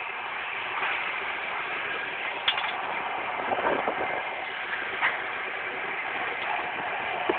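Passenger train running, heard from inside a carriage: a steady rushing noise with a few faint clicks from the wheels and track.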